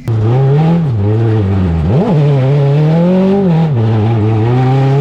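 Go-kart's Harbor Freight engine running hard, its pitch rising and falling as the throttle is opened and eased, with a sharp rev spike and drop about two seconds in.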